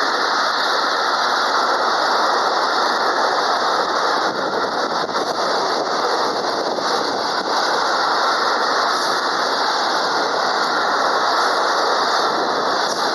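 Container freight train passing close by: its flat wagons roll over the rails with a loud, steady wash of wheel and track noise.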